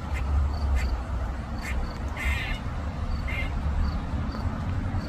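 A squirrel's distress calls: a few short, rasping cries at uneven intervals, the loudest and longest about two seconds in, with faint high chirps between them over a steady low rumble.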